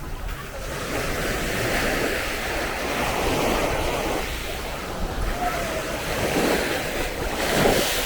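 Small sea waves breaking and washing up the sand, the hiss swelling and easing every few seconds, with wind rumbling on the microphone.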